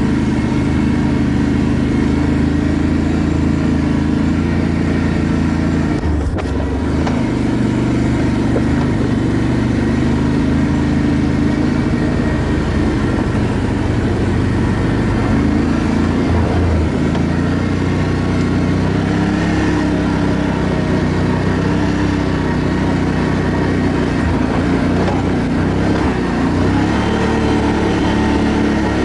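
ATV engine running steadily while riding, its pitch wavering slightly with the throttle, with a brief jolt about six seconds in.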